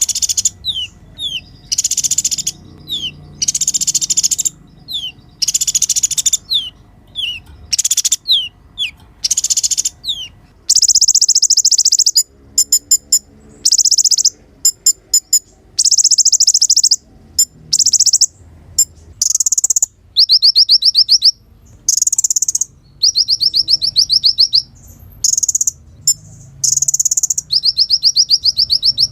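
A kolibri ninja sunbird singing loud, high, rapid twittering phrases of about a second each with short pauses: quick down-slurred chips and fast buzzy trills.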